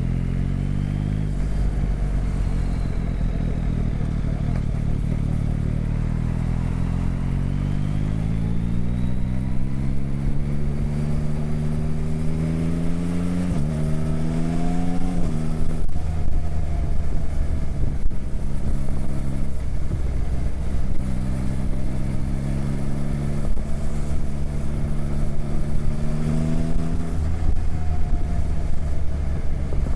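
A motorcycle engine pulling up through the revs in a long, slow rise, then a gear change, a short second climb and easing off. It then holds a steady cruising note, with one more brief rise and fall near the end.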